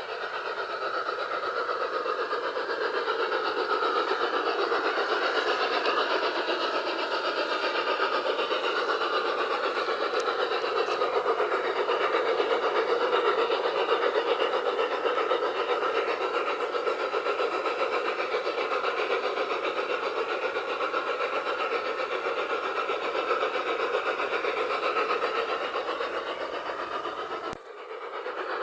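LGB G-scale model locomotive running on the track with its onboard sound unit playing, a steady train noise whose tones slowly slide in pitch in places. The sound drops out briefly near the end.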